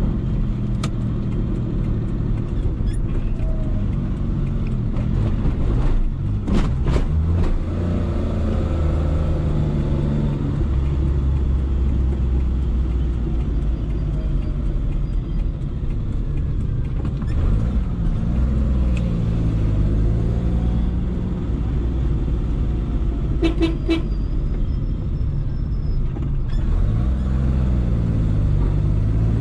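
Suzuki Khyber's 993 cc G10 three-cylinder petrol engine running while driving, heard from inside the cabin, its pitch rising and falling with throttle and gear changes. A couple of brief sharp knocks come about seven seconds in and again near twenty-four seconds.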